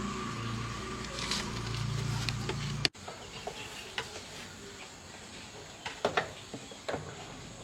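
A steady machine hum that cuts off abruptly about three seconds in, followed by a few scattered clicks and knocks.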